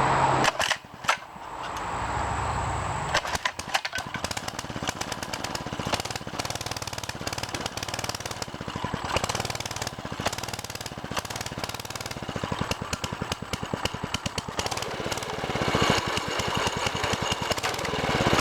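Baja DB30 mini bike's 97cc four-stroke engine being started on full choke: a few knocks in the first second or so, then it catches about three seconds in and runs with a fast, even beat, getting a little louder near the end.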